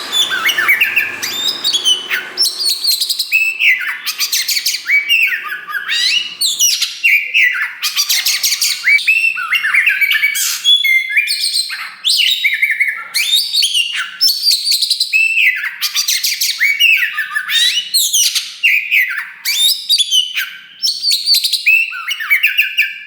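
Oriental magpie-robin of the black 'kacer wulung' form singing loudly and almost without pause: a run of rapid, varied phrases of sweeping whistles and fast chattering notes, each phrase broken by only a brief gap.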